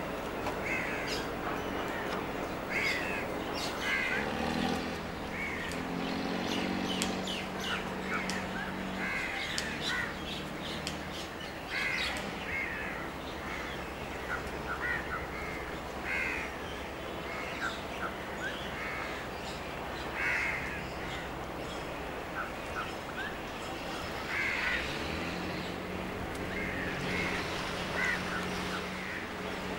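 Birds calling over open water, many short calls repeated throughout. A low steady hum comes in about four seconds in, fades, and returns near the end.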